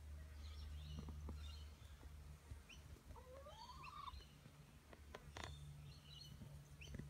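Faint outdoor bird sounds: scattered short high chirps over a low steady hum, with one rising call about three seconds in and a few light clicks around five seconds.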